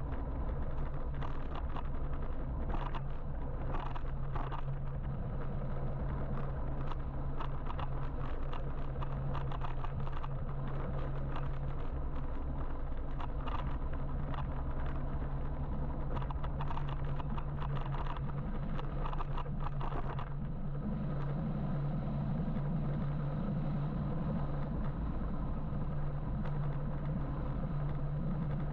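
Road and traffic noise heard while riding an electric motorbike in city traffic: a steady low hum under an even rush of noise, with frequent light crackles and clicks.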